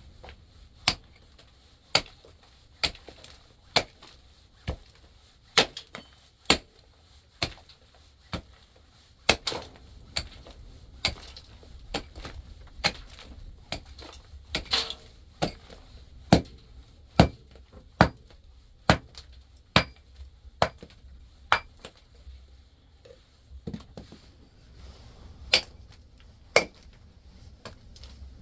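Sharp knocks struck one after another, roughly one a second and of uneven strength, over a low steady rumble.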